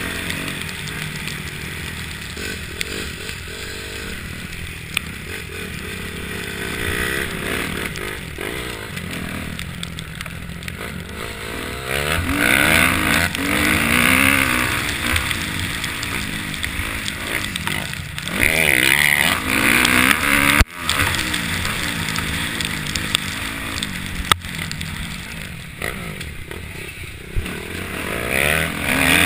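Motocross bike engines revving up and dropping back again and again, the pitch rising and falling as the throttle opens and closes. The sound grows louder about twelve seconds in, again around eighteen seconds, and near the end.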